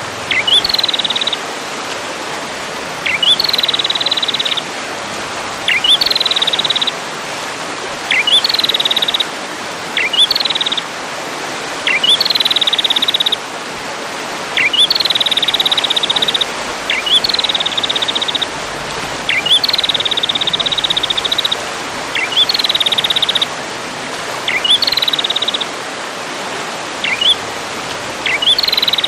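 A songbird repeating one phrase about every two seconds: a quick rising note, then a buzzy rapid trill of one to two seconds, over a steady hiss. It is a recorded tutor song for training caged songbirds.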